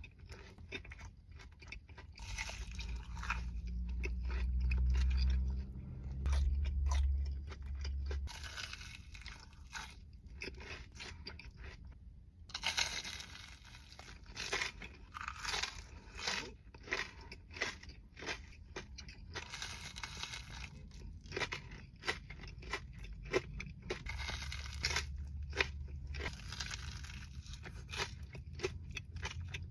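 Close-miked biting and chewing of a crispy fried Korean corn dog: dense, irregular crunching crackles with wet chewing, and a low rumble at times.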